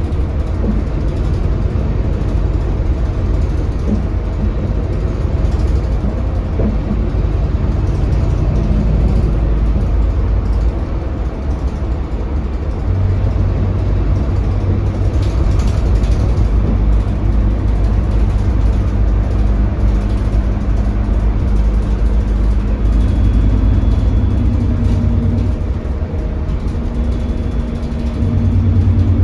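Scania DC9 five-cylinder diesel engine of a Scania K320HB city bus, heard from inside the bus while driving. A steady low drone that grows firmer about halfway through, dips briefly near the end, then picks up again.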